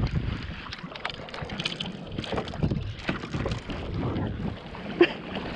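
Wind buffeting the microphone over water sloshing and splashing against a kayak at sea, with scattered small knocks and one sharper knock about five seconds in.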